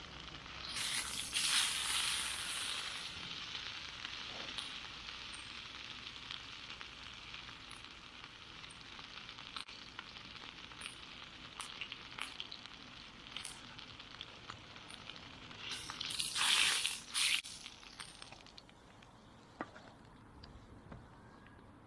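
Food sizzling on a grill over a wood fire, with small crackles and pops throughout and two louder hissing surges, one about a second in and one near three-quarters of the way through.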